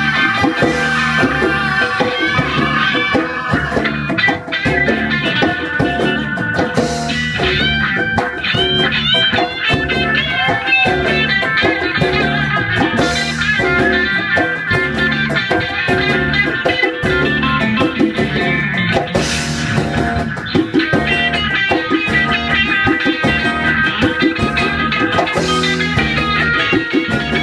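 Live band playing an instrumental passage: guitar over a drum kit with a steady beat, with a cymbal crash about every six seconds.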